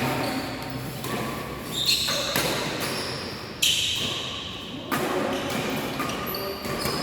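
Badminton rally: rackets striking the shuttlecock, sharp hits about every second or so, with sports shoes squeaking on the court between them, echoing in a large hall.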